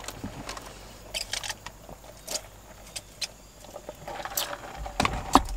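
Soft, irregular mouth clicks and smacks of someone chewing a burger close to the microphone.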